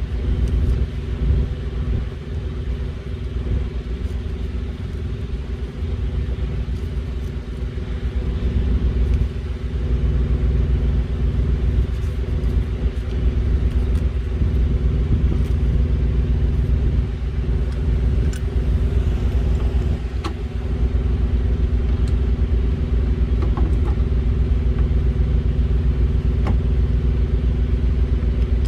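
A heavy diesel truck engine idling steadily with a constant low rumble, with a few faint tool clicks over it.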